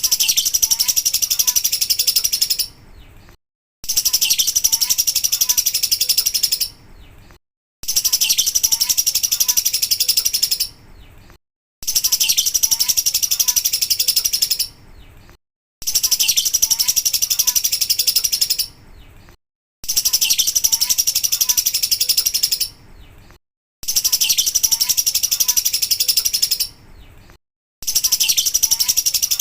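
Lovebird 'ngekek' song: a long burst of rapid, high-pitched chattering trills lasting about three seconds, repeated identically about every four seconds with brief silences between, as a looped training recording.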